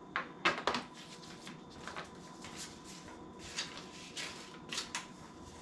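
Short clicks and rustles from handling a plastic ultrasonic humidifier, with the loudest few about half a second in.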